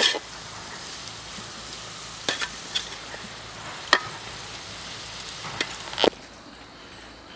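Chicken frying with a steady sizzle, stirred with a spoon that scrapes and knocks against the pan every second or two. The sizzle drops away about six seconds in.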